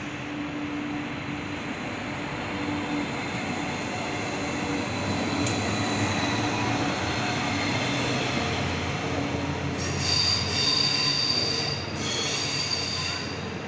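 A Thurbo Stadler GTW regional multiple unit runs past close by, its running noise growing louder as it passes. About ten seconds in, its wheels squeal high-pitched as it takes the curve, twice with a short break between.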